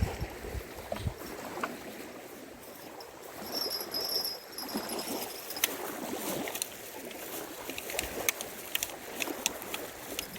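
Small waves lapping and trickling at the pond's edge, with scattered light clicks of handling from the middle on. A faint high steady tone lasts about two seconds a third of the way in.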